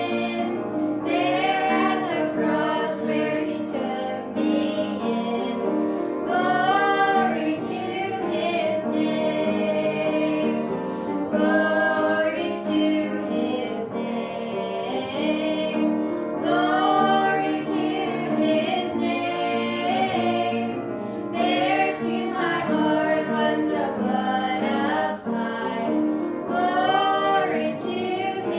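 A family singing a hymn, with female voices leading, over a sustained instrumental accompaniment.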